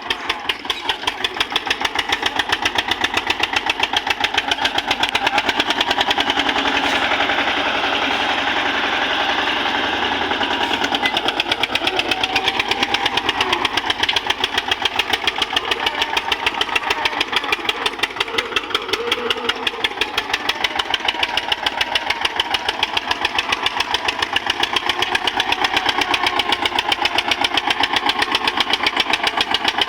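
Eicher tractor's diesel engine running steadily with a rapid, even beat of firing strokes.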